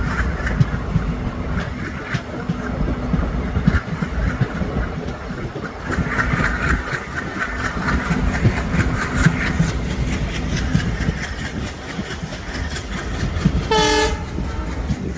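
Train running along the track, a steady rumble with rhythmic wheel clatter over the rail joints, and one short horn blast near the end.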